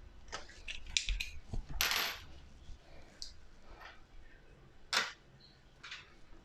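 Scattered clicks and taps of small hard parts being handled, with a short scrape about two seconds in and a sharp click about five seconds in.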